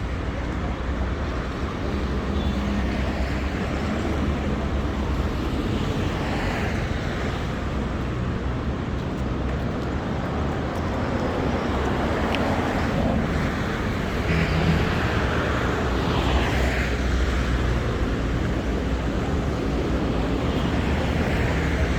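City street traffic: vehicle engines running and passing, a continuous low rumble with a steady hiss above it that swells as vehicles go by.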